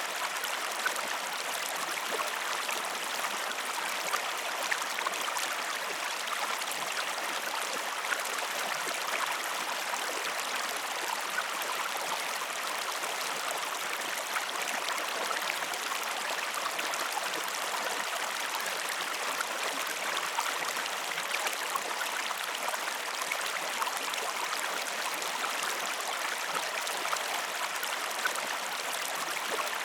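Running water of a stream or river, a steady even rush with fine trickling detail and no change throughout.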